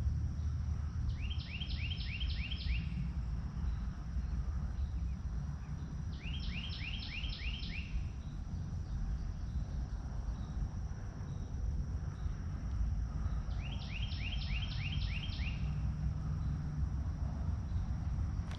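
Steady low wind rumble on the microphone, with a bird singing three short phrases of about six quick rising notes each, several seconds apart.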